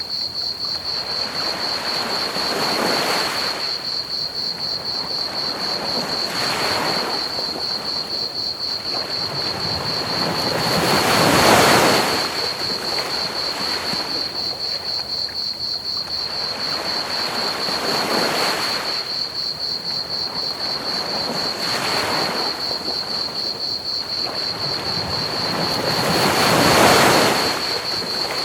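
Ocean waves washing onto a beach in slow swells every few seconds, the biggest about 11 and 27 seconds in, over steady, rapid cricket chirping and a constant pink-noise hiss.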